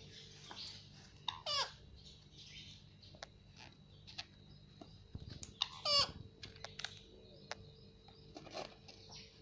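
Indian ringneck parrot calling twice, each call falling in pitch, about a second and a half in and again about six seconds in, with scattered soft clicks between.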